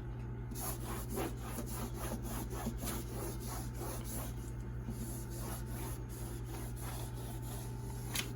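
Steel scrubbing pad scouring a refrigerator's side panel in quick back-and-forth strokes, several a second: the scratchy rub of scrubbing off stains.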